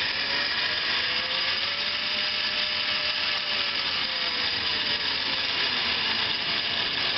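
Hardinge HLV-BK tool room lathe's spindle and drive running in high range, a steady mechanical whir with a faint whine that rises a little and then falls back as the variable speed is turned up and down.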